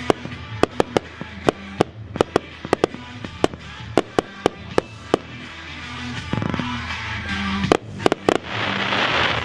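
Area 51 firework cake firing its finale: sharp reports about three a second, giving way from about six seconds in to a dense crackling hiss that is loudest near the end.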